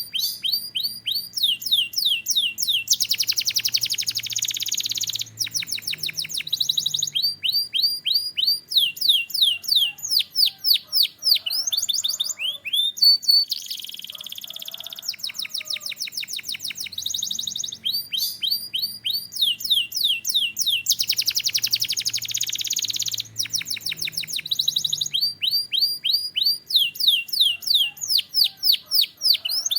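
Canary singing a continuous song of fast trills: runs of quick sweeping notes repeated several times a second, broken by a few dense buzzy rolls.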